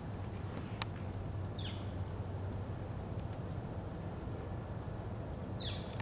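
Two short bird calls, each falling steeply in pitch, about four seconds apart, over a steady low rumble, with a single sharp click about a second in.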